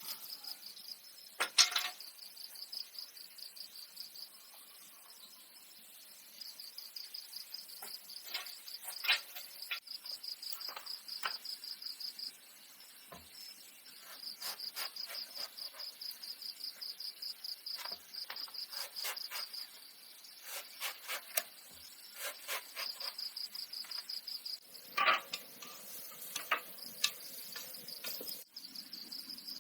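Insects trilling in a high, fast-pulsing chirr that comes in long bouts with short pauses between them. Scattered sharp clicks and knocks sound over it, the loudest about a second and a half in and again near the end.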